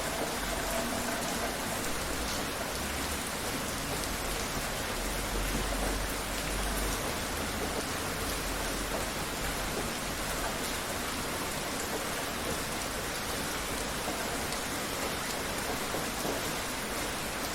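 Steady rain falling, an even hiss of drops on surfaces with no break.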